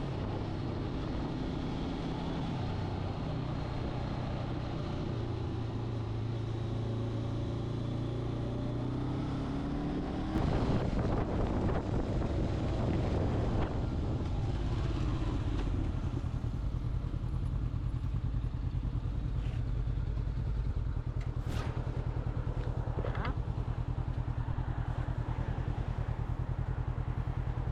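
Motorcycle engine running steadily, getting louder with added rushing noise about ten seconds in, then settling into an even, fast pulsing in the second half.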